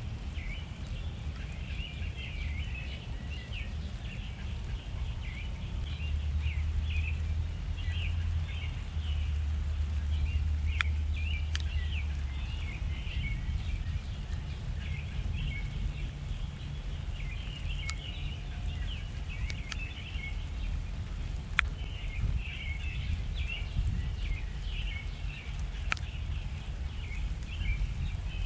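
Small backyard birds chirping and twittering continuously over a steady low rumble, with a few sharp clicks scattered through.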